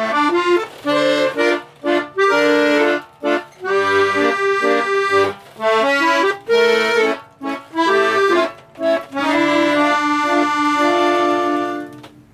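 Instrumental music led by an accordion, playing a melody in short phrases, ending on a long held chord that stops near the end.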